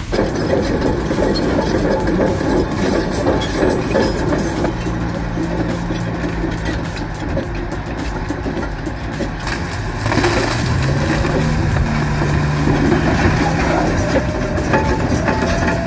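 Crawler bulldozer's diesel engine working hard under load. Its note rises about ten seconds in as the engine is pushed harder.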